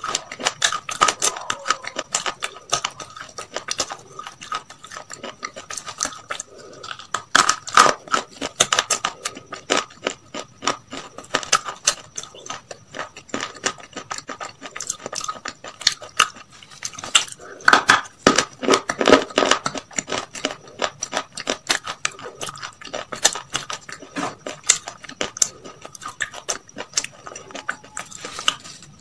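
A person chewing crispy fried chicken close to the microphone: dense, irregular crunches and wet mouth clicks, heaviest about eight seconds in and again around eighteen to twenty seconds.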